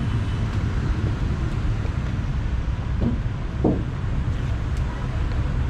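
Steady low outdoor rumble of city traffic and wind on the microphone, with a faint distant voice briefly around three to four seconds in.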